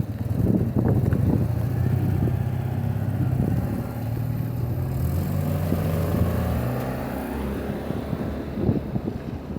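Vehicle engine running steadily, fading away about seven seconds in, with wind buffeting the microphone.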